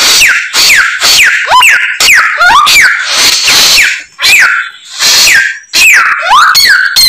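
Samyong songbird singing loudly in a fast run of short, sharp whistled notes, mostly sweeping downward with a few rising ones, mixed with harsh rasping calls: a bird in full song delivering its mimicked repertoire (isian).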